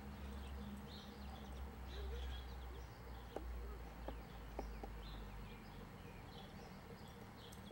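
Small birds chirping repeatedly over a steady low rumble, with a few faint clicks about halfway through.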